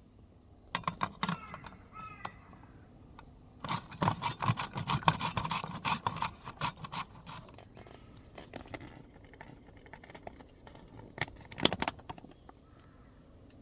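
Hand food preparation: quick clicks and scrapes of a knife or utensils in three bursts, a short one about a second in, a longer dense run in the middle and a short one near the end.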